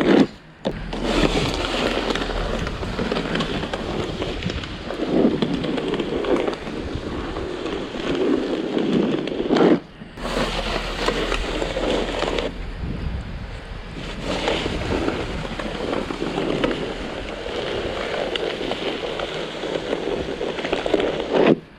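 Wet, heavy packing snow crunching and scraping as it is worked by hand, a steady crackly rasp that breaks off briefly about ten seconds in.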